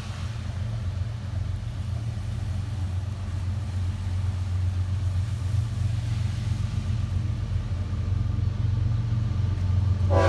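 Low, steady rumble of approaching GE ES44C4 diesel locomotives, slowly growing louder; the train horn starts sounding at the very end.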